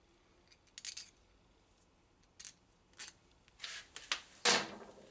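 Small metal parts and tools clicking and clattering in about six short bursts, the loudest near the end with a brief ring.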